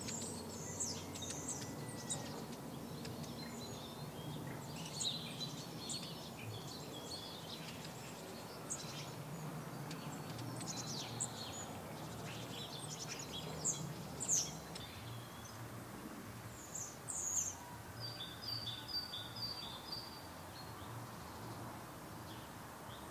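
Songbirds calling and singing, with many short high chirps and whistles and, near the end, a quick run of about five repeated notes, over steady low background noise.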